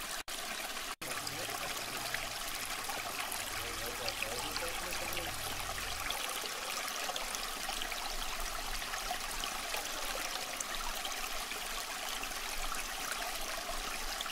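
Steady running water, with two very brief dropouts near the start.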